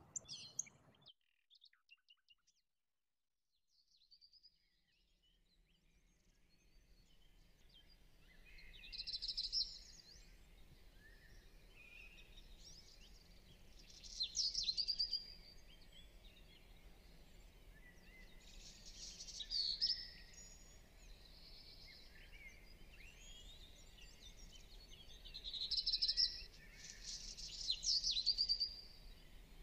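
Birds calling in short bursts of quick chirps, about every five seconds, over a faint steady background hum. The sound drops almost to silence for a few seconds near the start.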